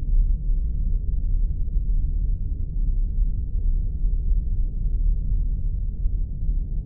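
Sci-fi spaceship sound effect: a steady, deep engine-like rumble with no high sounds in it and no change in level.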